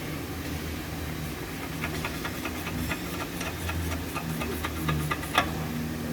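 Hand tools clicking and tapping, several times a second from about two seconds in, over a steady low hum; one louder knock about five seconds in.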